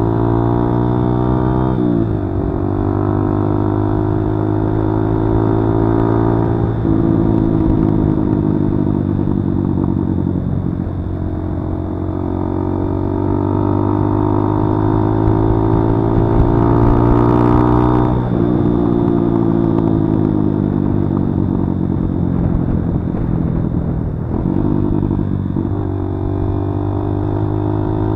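Kawasaki D-Tracker 150's single-cylinder four-stroke engine running under way. Its pitch climbs under acceleration and drops sharply at gear changes several times, with stretches where it eases off and falls.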